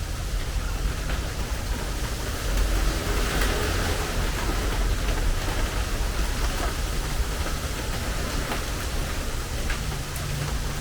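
Steady rain drumming on a metal porch roof: a dense hiss of falling rain with scattered individual drop ticks, swelling slightly a few seconds in.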